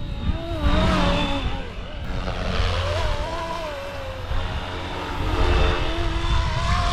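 Flywing Airwolf RC helicopter's rotors and electric motor whining in flight, the pitch wavering up and down as it holds position against gusts, with wind rumbling on the microphone.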